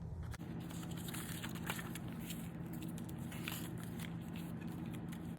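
Paper rustling and crackling as a picture book is handled and its pages are turned, with many small clicks over a steady low electrical hum.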